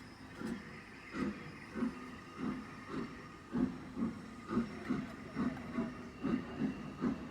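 Steam locomotive exhaust beats, a regular chuff that speeds up steadily as the engine pulls away and gathers speed.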